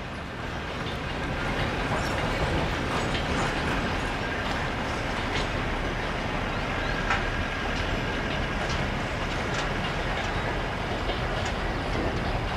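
Indian Railways express train's coaches rolling away along the track. A steady rumble of steel wheels on rail swells in the first couple of seconds, then holds, with a few sharp clicks from the wheels.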